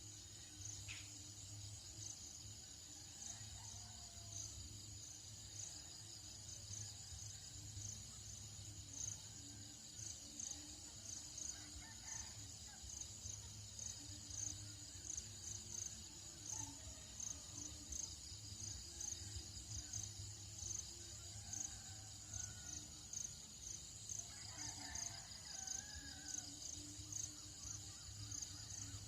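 Tropical dawn soundscape: insects chirping in a steady high pulsing train, several chirps a second, with scattered bird calls, one longer call about 24 seconds in, over a low steady rumble.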